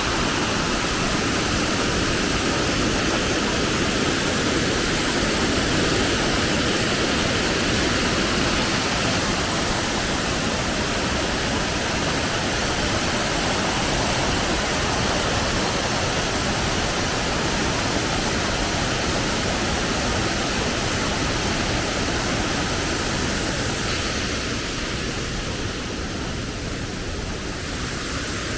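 Waterfall rushing in a steady, loud roar of falling water that eases a little near the end.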